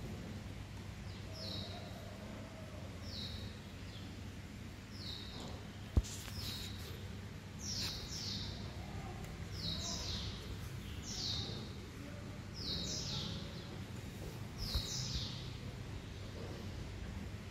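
A bird chirping over and over, in short high falling double notes every second or two, against a low background hum. A sharp tap comes about six seconds in.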